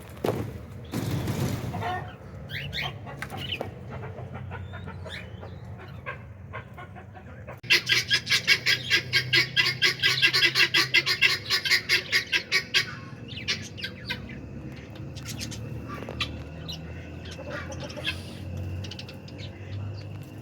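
Budgerigar calling: scattered chirps, then a loud run of rapid repeated chirps, about five a second, lasting some five seconds from about eight seconds in, then softer chirps again.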